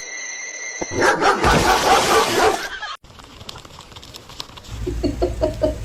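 A dog yipping and barking in short calls, with a loud rushing noise for about a second and a half early on, then a run of short high yips over a low hum near the end.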